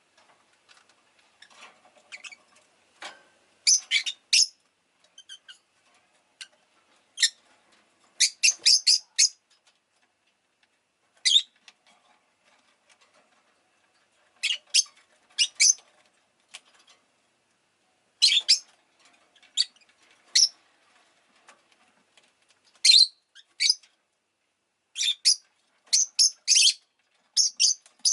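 Rosy-faced lovebird chirping: short, sharp, high-pitched chirps in quick clusters of two to five, separated by pauses of a second or more, with faint clicks and rustling in between.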